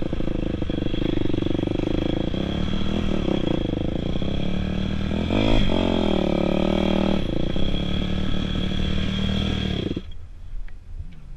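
Dirt bike engine running, revving with a rising then falling pitch about halfway through. The engine sound cuts off suddenly near the end.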